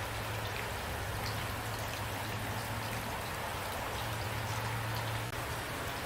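Steady rain falling, with scattered individual drops tapping through the hiss.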